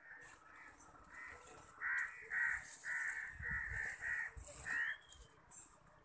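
A bird giving a quick run of about seven loud calls, roughly two a second, starting about two seconds in and stopping near five seconds, with a brief rising whistle just before the last call.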